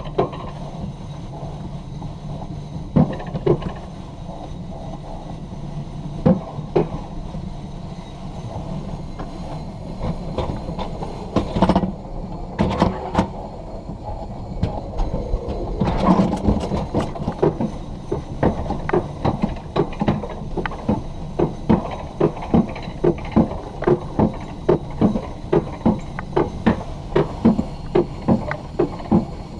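Alpine coaster sled being hauled up the lift on its steel-tube track, with a steady rumble and sharp clacks that become regular, about one and a half a second, from about halfway through.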